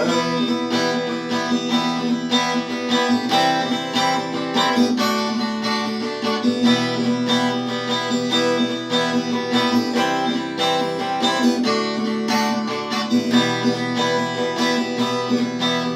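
Acoustic guitar strumming chords in a steady rhythm, an instrumental passage between sung verses of the song.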